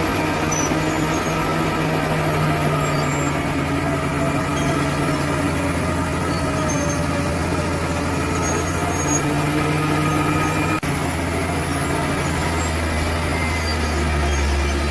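Bulldozer's diesel engine running steadily while working, then dropping to a lower engine speed in the last few seconds.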